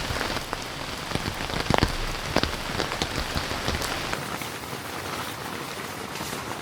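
Heavy rain falling, with many individual drops tapping sharply close by over a steady hiss. A low rumble underneath drops away about four seconds in.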